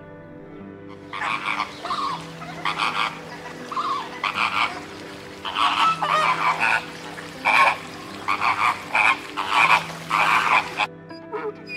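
A flock of flamingos calling, many short calls overlapping in a busy chatter. It starts about a second in and stops shortly before the end.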